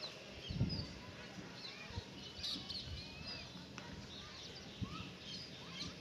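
Birds chirping: many short, faint chirps and whistles, scattered and overlapping, with a few low thumps, the strongest just over half a second in.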